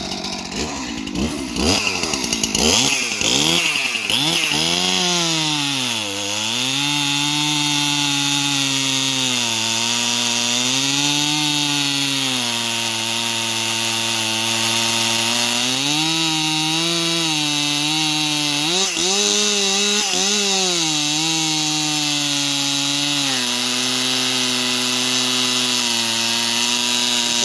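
Stihl MS 261 C two-stroke chainsaw on its stock muffler, at full throttle cutting through wood. The engine note drops each time the chain bites into the cut and climbs back as it clears, several times over.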